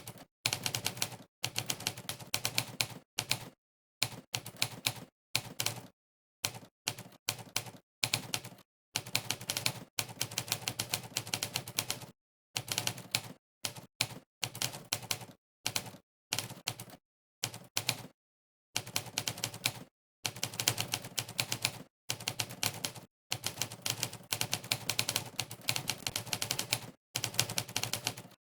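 Monkeytype's simulated typewriter key sound, one sharp clack per keystroke, in fast runs of rapid typing broken by short pauses of dead silence.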